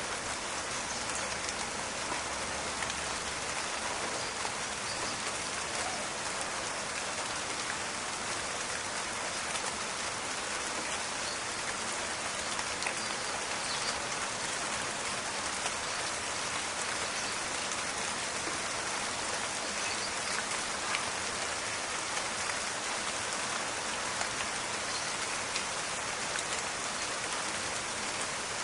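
Steady rain pattering on leaves and the ground, with scattered small crackling drops over a dense, even hiss.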